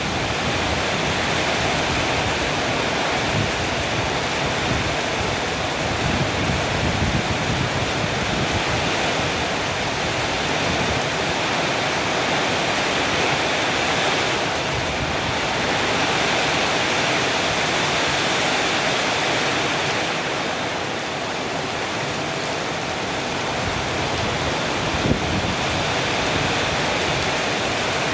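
Strong storm wind blowing hard and steadily ahead of rain, a loud continuous rushing with gusts buffeting the microphone.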